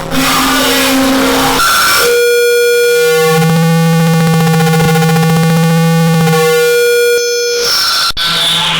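Harsh noise music: a dense, hissing wall of noise gives way about two seconds in to a loud steady drone of many stacked tones. The drone holds for about five seconds, then cuts back to noise, with a sharp click near the end.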